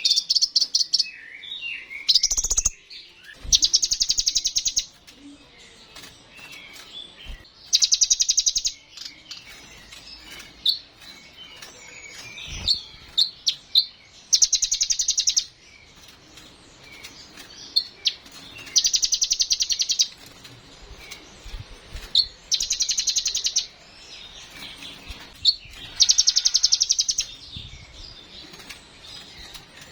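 Kolibri ninja (Van Hasselt's sunbird) singing: loud rapid high trills about a second long, repeated every three to four seconds, with softer twittering chirps between them.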